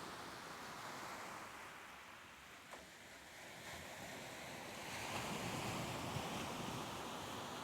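Soft ocean waves washing on the shore in a steady hiss, easing a little, then building into a swell about five seconds in.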